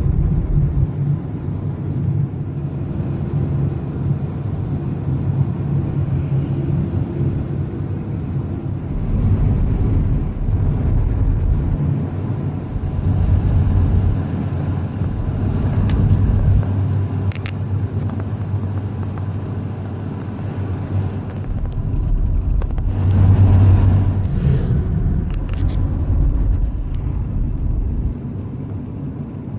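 A car driving: steady low engine and road rumble that swells and eases, loudest a little after the middle, with a few sharp clicks.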